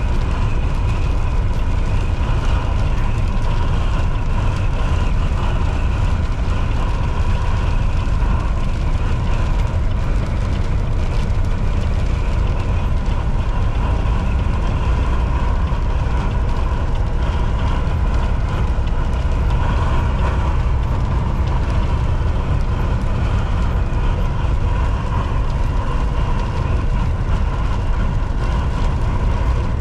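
Volvo VNL 760 semi truck cruising at highway speed: a steady diesel engine drone with tyre and road noise, and a faint steady whine above it.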